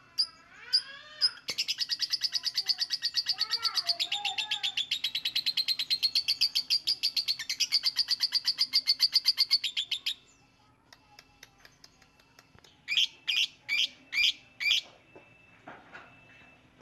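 Lovebird singing: a few sharp chirps, then a long, fast chattering trill of repeated high notes, about seven a second, lasting around eight seconds, then a pause and five loud chirps near the end. A faint steady hum runs underneath.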